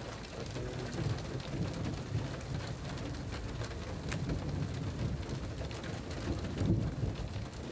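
Rain falling steadily over a low, uneven rumble, with a few sharp ticks.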